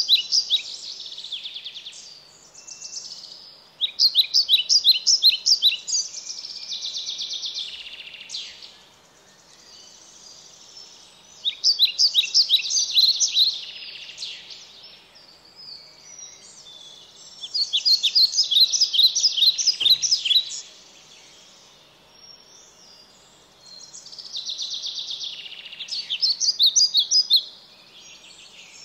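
A songbird singing: bursts of rapid, high, trilled notes every few seconds, with quieter warbling between them.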